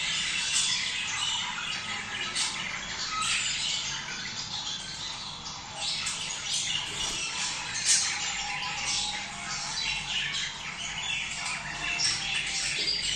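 A flock of budgerigars chattering continuously, with many overlapping short high calls.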